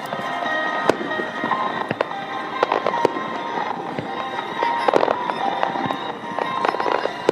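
Aerial fireworks going off: several sharp bangs, with bursts of crackling about halfway and near the end, over music playing throughout.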